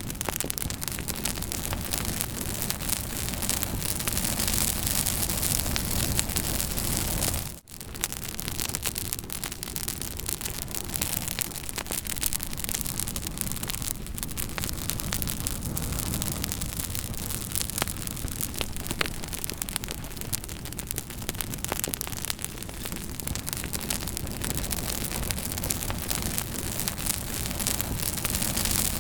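Campfire burning, with a dense steady hiss and frequent small crackles and pops. The sound cuts out for a split second about seven and a half seconds in.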